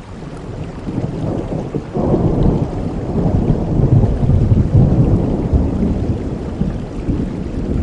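Thunderstorm: heavy rain falling steadily while a long roll of thunder rumbles. The thunder swells sharply about two seconds in and stays strong through the middle before easing slightly.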